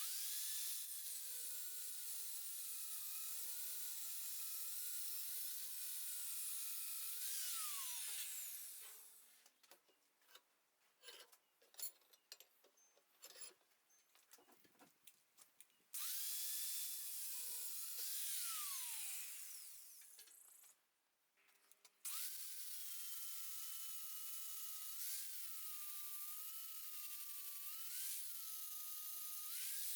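Angle grinder with a cutting disc running and cutting through a mild steel bar, its whine wavering under load over a steady hiss. It runs in three spells. The first two wind down with a falling whine, and a few light knocks fall in the gap between them.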